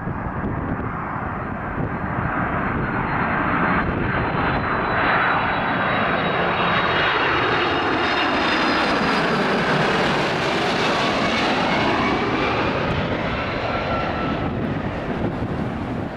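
Boeing 767-200 twin turbofan jet landing: engine roar that builds as the plane nears and passes. A high whine slides down in pitch as it goes by, and the roar eases off near the end.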